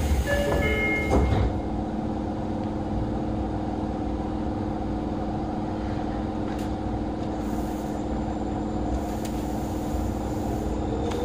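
Inside a Tokyo Metro 03 series VVVF car: a short electronic chime of stepped tones in the first second, then the steady hum of the train standing at the platform. Near the end the VVVF inverter whine starts to rise in pitch as the train begins to pull away.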